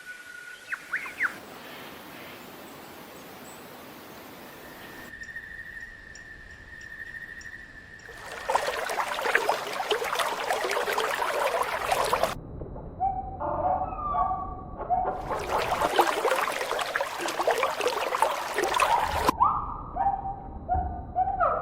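Several short bird calls, each with a clear pitch, come in a gap about halfway through and again near the end. Two loud, dense stretches of crackling, splashing-like noise surround them, and the opening part holds a faint hiss, a few brief chirps and a steady high whistle.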